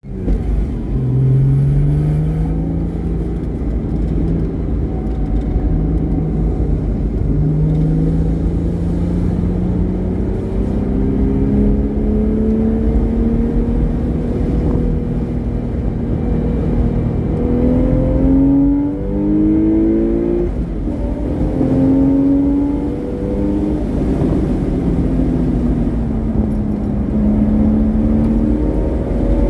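Porsche Boxster S flat-six with a modified exhaust running hard on a racetrack. The engine note climbs slowly and steadily, drops and climbs again several times in quick succession about two-thirds of the way through, then falls and rises once more near the end, over a constant low rumble of wind and road noise.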